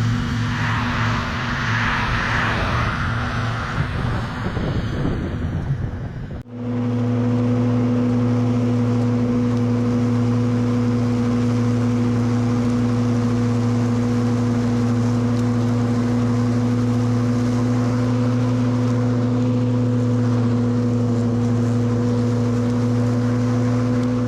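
An engine running. About six seconds in there is a sudden break, and after it a very steady, even engine drone that holds one pitch.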